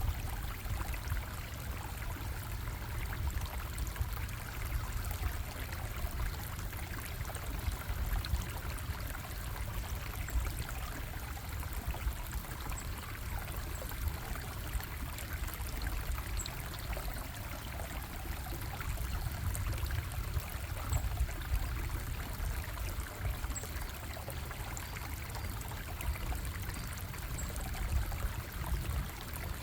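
Stream water bubbling and trickling steadily, with a deep rumble underneath.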